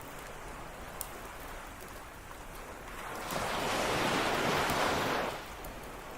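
Ocean surf: a wave breaks and washes up the beach, swelling about three seconds in and falling away after about five, over a steady surf hiss. A few small sharp crackles from the campfire.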